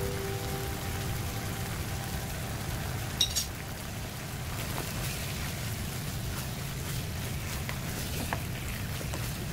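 Food sizzling in a pan: a steady hiss with scattered faint crackles over a low hum, with one sharp click about three seconds in. A guitar note fades out at the start.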